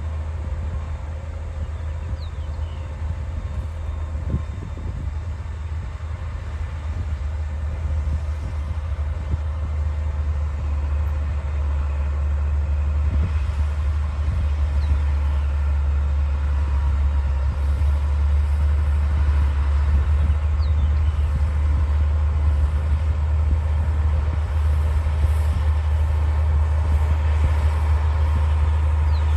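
Diesel engine of a D60 crawler bulldozer running steadily with a deep drone, growing gradually louder.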